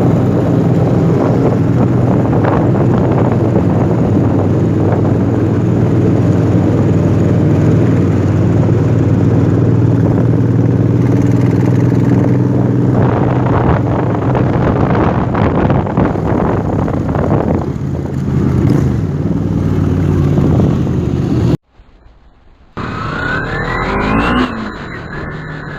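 Motorcycle engine running at a fairly steady speed, with wind rushing over the microphone. The sound cuts off suddenly near the end, and a quieter, different sound with a rising tone follows.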